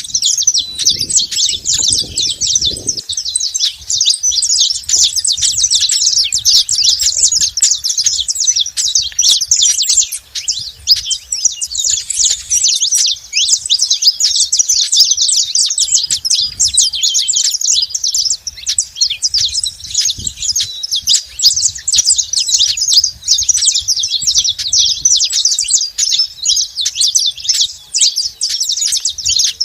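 Saffron finches chirping and singing without a break: a dense, rapid run of high-pitched chirps. A few low sounds come in during the first three seconds.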